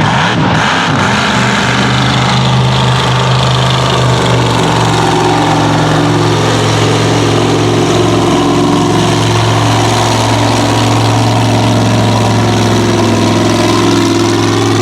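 Supercharged big-block V8 of a mega truck running at a loud, steady idle, its pitch wavering briefly in the first second before it settles.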